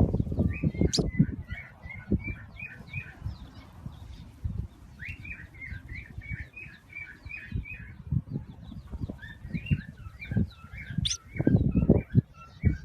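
Baby bird cheeping in three quick runs of short, high chirps, about four or five a second. Low thumps and rumble sound underneath, loudest at the start and near the end.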